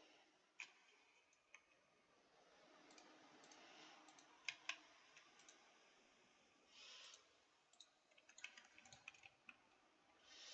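Faint, irregular clicks of computer keyboard keys being pressed one at a time, with a close pair about halfway and a quicker run of presses near the end. Twice, a short soft swish.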